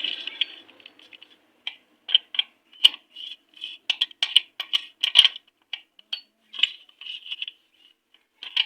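Steel gearbox parts of a Honda Shine engine clinking and clicking as the shift-fork pins and gears are fitted into the crankcase by hand. A quick, irregular run of light metal taps.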